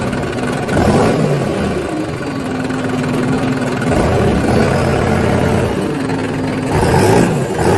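Toy vehicle making a steady engine-like running noise, with a low hum that shifts in pitch now and then.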